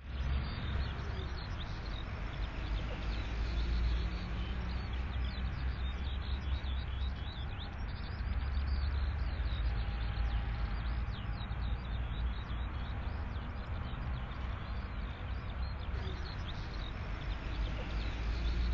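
Birds chirping, many short high calls throughout, over a steady low rumble of outdoor ambience.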